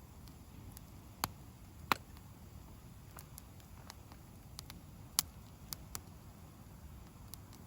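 Wood fire crackling: sharp pops at irregular intervals, the loudest about a second and two seconds in and again near five seconds, over a low steady rumble.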